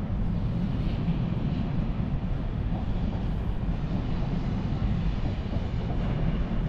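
A train running past on the tracks: a steady low rumble that holds level throughout.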